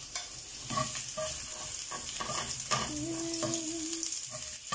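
Sliced onion and garlic sizzling in hot oil in a nonstick frying pan, stirred with a slotted spatula that scrapes and knocks against the pan several times.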